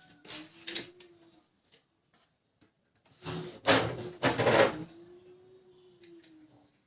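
A cleaned plastic part being pushed back into a Canon LBP 2900 laser printer by hand: a knock about half a second in, then a louder clatter of sliding and clicking about three seconds in.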